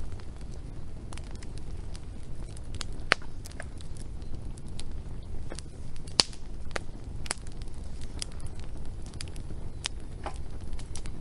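Wood fire burning with irregular crackles and sharp pops over a low, steady rumble of flame; the loudest pops come about three and six seconds in.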